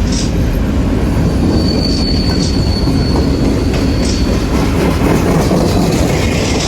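Norfolk Southern freight train rolling past, a steady heavy rumble of steel wheels on rail. A thin high wheel squeal rises out of it a second and a half in and holds for about three seconds.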